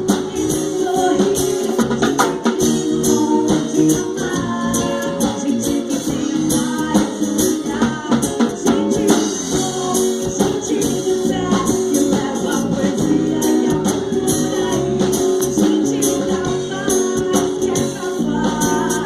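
Live band playing a reggae-pop song, with singing over the band.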